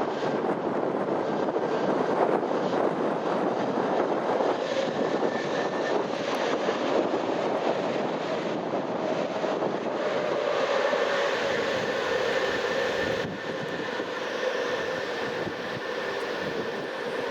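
Aircraft engines running as a plane passes the airfield: a steady rush with a held whine that gains a higher tone about halfway through, with gusts of wind on the microphone in the first half.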